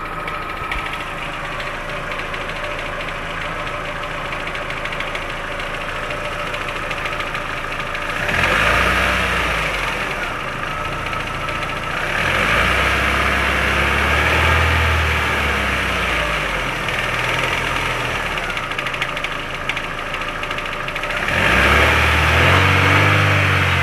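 Warmed-up Chevrolet Rezzo engine idling with a knock, revved up and let back down three times. The knock appears only once the engine is hot and is still there after a worn water pump was replaced and the oil changed.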